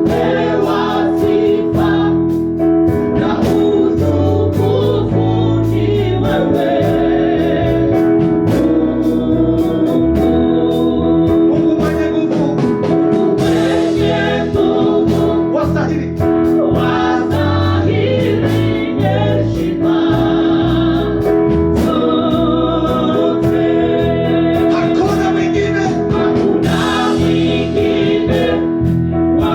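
Gospel praise-and-worship music: singers and a choir over sustained keyboard organ chords, bass and a steady drum beat.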